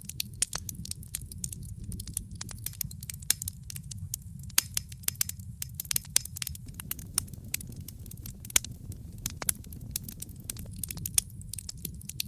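Campfire crackling: burning wood gives off frequent irregular sharp pops and snaps over a steady low rumble.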